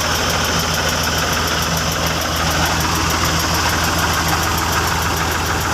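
Tractor engine idling steadily, with a fast, even beat.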